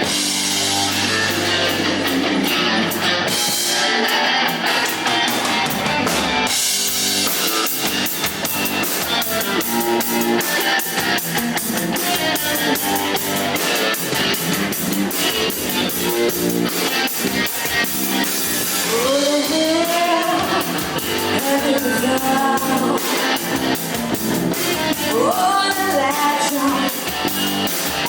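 Indie rock band playing live, with electric guitar, bass and drum kit; the drums fill out into a steady beat about six seconds in.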